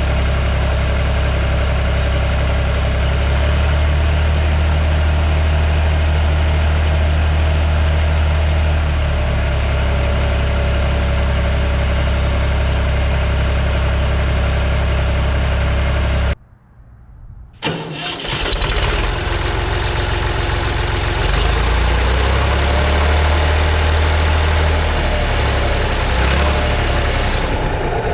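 1973 Massey Ferguson 135 tractor engine running steadily. About two-thirds of the way through, the sound cuts out suddenly for about a second. It then comes back with the engine running again, its pitch rising and falling a little.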